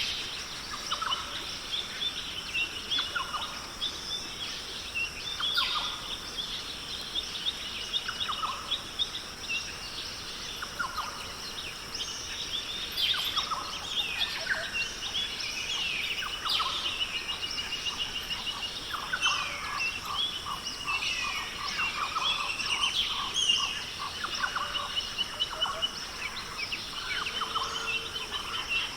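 Rainforest birds calling over one another: a mix of short chirps, whistled notes and rapid trills, with a steady high-pitched hum underneath.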